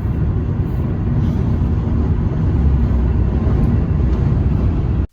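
Steady low rumble of a semi-truck's engine and road noise heard from inside the moving cab; it cuts off suddenly at the end.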